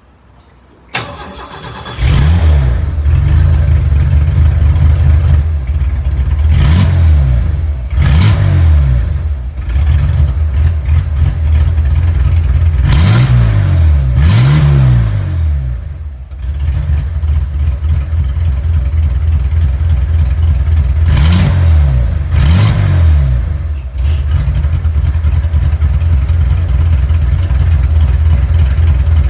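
Ford 300 (4.9 L) inline-six in a 1989 F-150, running with no muffler, straight-piped. It cranks briefly and starts about two seconds in, then idles loudly between a series of short revs, several of them in pairs. It settles into a steady idle near the end.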